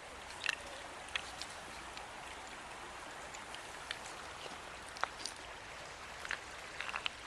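Shallow water flowing and trickling steadily, with a few scattered light clicks and ticks.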